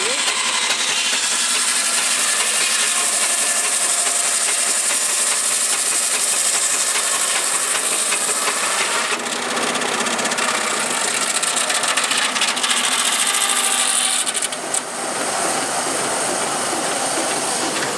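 Powered saw cutting through timber, a steady loud rasping noise with the machine running behind it, easing briefly about fifteen seconds in.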